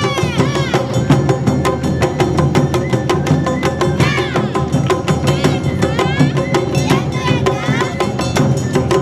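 Awa Odori band playing: drums and a fast, clattering percussion rhythm in the lively two-beat festival style, with short shouted calls near the start, about four seconds in, and around seven seconds.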